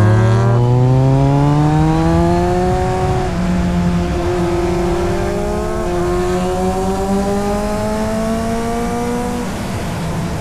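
Motorcycle engine accelerating hard through the gears. The pitch climbs steadily in each gear and drops at each upshift, about every three seconds, three shifts in all.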